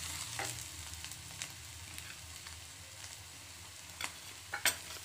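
Besan uttapam frying in butter on a tawa: a steady sizzle with a few sharp ticks and pops, the loudest two close together near the end.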